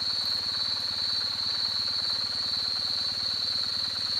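Kawasaki W-series air-cooled parallel-twin motorcycle running steadily at idle through its mufflers, an even low pulsing beat that does not change.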